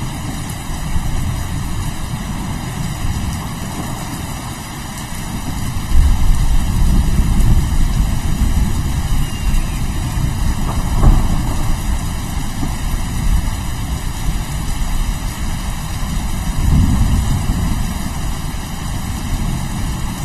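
Steady rain with rolling thunder: a deep rumble swells about six seconds in and rolls on, and another rises near the end.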